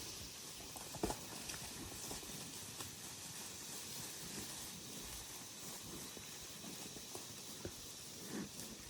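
Cattle moving about in a wet pasture: scattered, irregular soft hoof thuds and clicks, one sharper knock about a second in.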